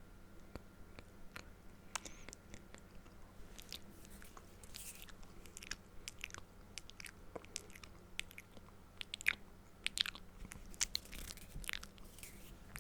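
Close-miked ASMR mouth sounds: irregular wet clicks and smacks of the lips and tongue, sparse at first and coming thicker after a few seconds.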